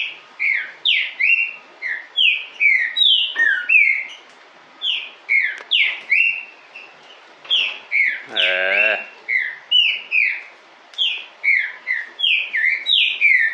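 Young trinca-ferro (green-winged saltator) calling: a steady run of short, sharp down-slurred chirps, several a second, rather than full song. About eight and a half seconds in there is a brief lower, wavering sound.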